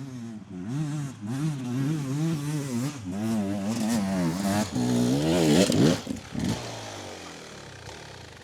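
Dirt bike engine on a steep hill climb, the throttle opening and closing in quick pulses, then revving hard about five seconds in before dropping away and fading near the end.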